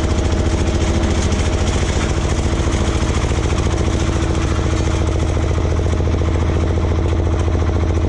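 Air-cooled single-cylinder Deutz diesel on a 1970s Case roller compactor, running steadily at an even speed.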